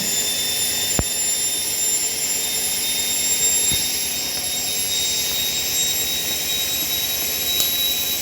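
Hoover 7 kg washing machine spinning its drum on the final spin (800 rpm) of the Rapid 14 programme: a steady high-pitched motor whine over a rushing sound, with a light knock about a second in and another near four seconds.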